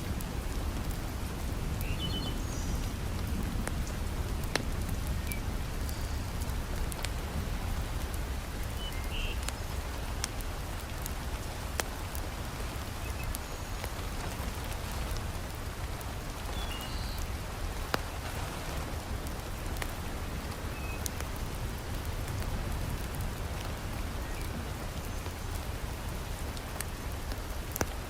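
Heavy rain falling steadily, with scattered sharp pops and crackles from a wood fire in a fireplace and a few brief faint chirps.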